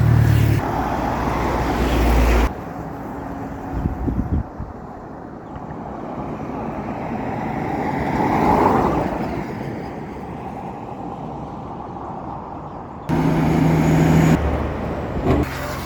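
Motor vehicle driving: a steady engine hum with road noise. The sound drops abruptly about two and a half seconds in and comes back just as abruptly about thirteen seconds in. In between, traffic noise swells and fades, peaking about nine seconds in.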